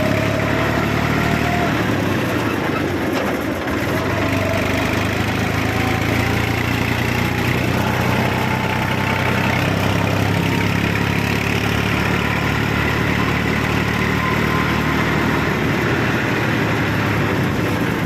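A 39 hp New Holland tractor's diesel engine running steadily, with a faint whine that slowly rises in pitch.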